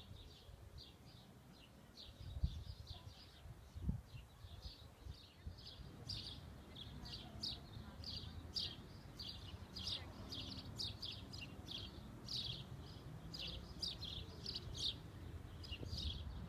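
A small bird chirping over and over, short high chirps two or three a second, over a low rumble with a couple of dull thumps.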